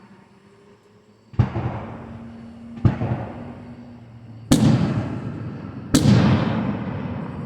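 Fireworks display: four aerial shells bursting about a second and a half apart, each a sharp bang trailing off in a rumble, the last two the loudest.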